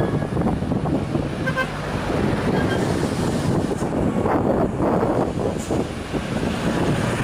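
Heavy truck's diesel engine running hard under load, a dense, steady low rumble. A few brief, faint high tones sit over it about one and a half seconds in.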